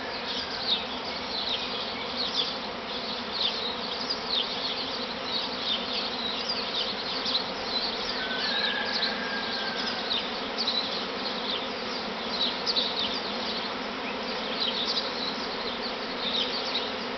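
A honeybee swarm in flight: a dense, steady buzzing hum from many bees in the air at once, with many short high chirps over it.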